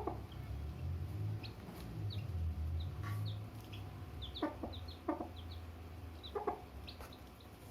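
Young chicks cheeping with many short, high, falling peeps while a hen clucks four times, over a low steady rumble.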